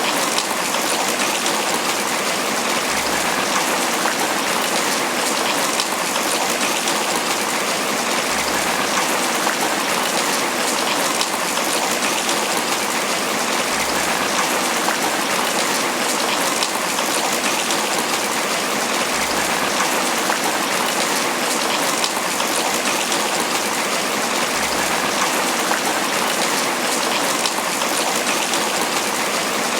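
Heavy tropical rain falling steadily on banana leaves, a dense, even patter of drops.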